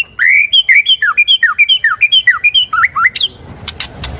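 White-rumped shama singing: a loud run of about ten clear whistled notes, each sliding steeply down in pitch, about three a second, ending in a quick rising note.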